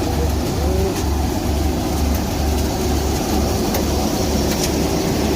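Swaraj 735 tractor's diesel engine running a thresher, with a steady rushing noise from the threshing machine over a low throb that pulses about twice a second.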